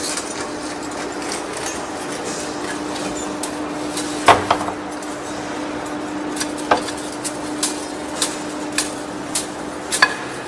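Steady machine hum under a run of sharp knocks, which start about four seconds in and come roughly every half second near the end.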